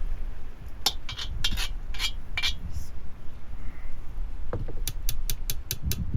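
Kitchen utensils and dishes clinking and knocking, with a quick run of about six sharp, evenly spaced taps near the end.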